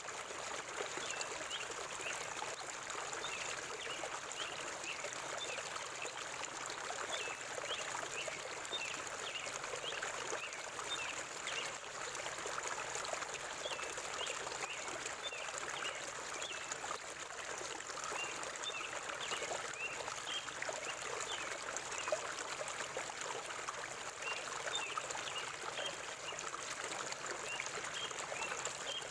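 River water flowing steadily with a constant rushing, trickling sound. Many short, high chirps are scattered through it.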